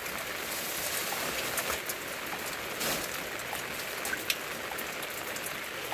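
Heavy rain falling steadily, a continuous hiss with individual drops ticking through it.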